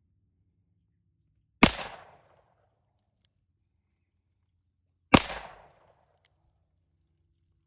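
Two revolver shots from a Taurus Raging Hunter .357 Magnum, about three and a half seconds apart, each with a short echo that dies away within half a second.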